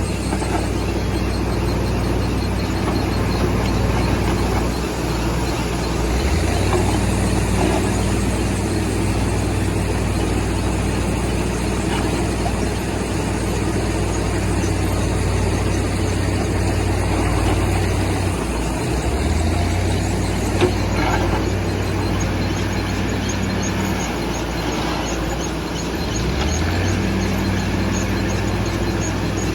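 Heavy diesel vehicle engine running steadily, its pitch stepping up a few times as the revs rise.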